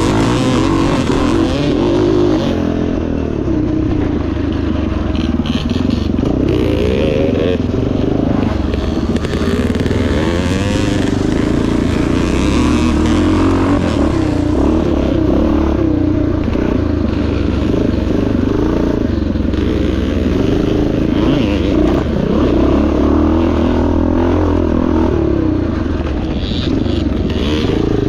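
1977 Yamaha TT500's single-cylinder four-stroke engine running, its revs rising and falling again and again.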